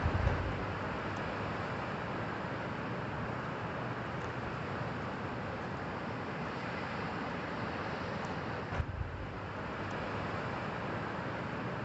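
Toyota Sienna minivan driving on a highway: steady road and tyre noise, with a brief low thump just after the start and another about nine seconds in.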